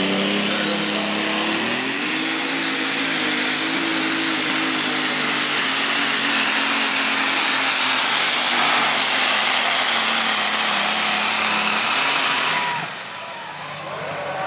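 Super stock pulling tractor's turbocharged diesel engine under full load during a pull: a turbo whine climbs steeply in the first two seconds and holds high and steady for about ten seconds. Near the end the throttle is cut and the engine sound drops off sharply.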